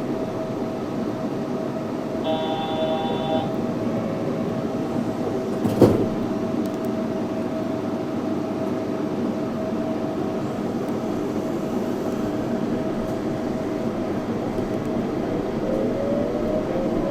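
Yurikamome 7300-series rubber-tyred automated guideway train running, with steady running noise and a constant motor hum. A brief electronic beep sounds about two seconds in, a single knock about six seconds in, and a rising whine begins near the end.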